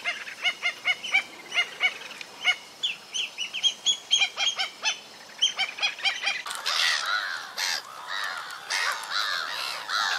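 Birds calling: a quick run of short, separate calls, then from about six and a half seconds a dense chorus of many birds calling at once.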